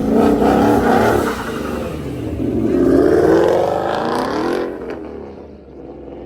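A car's engine at full throttle as it launches away. It starts suddenly and loud, climbs in pitch through the middle, then fades away after about five seconds.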